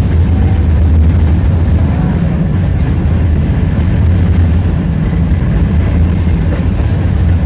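Tram running along the track, heard from inside the passenger car: a steady, loud low rumble of wheels on the rails.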